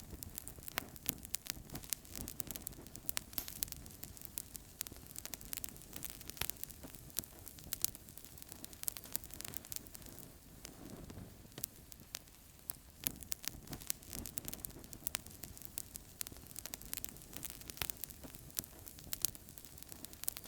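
Wood fire crackling in a fireplace: a steady low rush of flames under frequent sharp pops and snaps.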